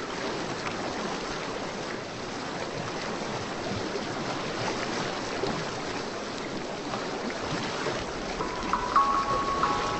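Steady rushing water ambience, a relaxing-sounds water bed. A few short high music notes come in near the end.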